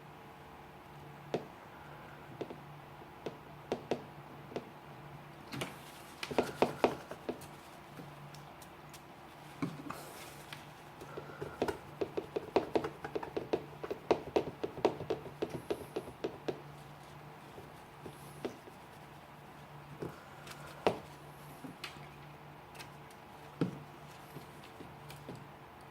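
Small clicks and taps from the metal parts of a Leatherman Wingman multi-tool being handled and cleaned by hand. They come in irregular bursts, densest about six seconds in and again from about ten to sixteen seconds in.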